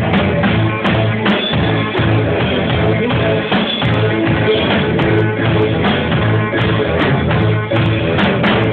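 Live rock band playing loudly, with drum kit, guitar and vocals, heard through a low-quality recording that loses the treble.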